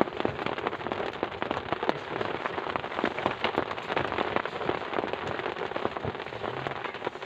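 Heavy rain falling steadily, a dense hiss packed with many sharp individual drop hits on a nearby surface.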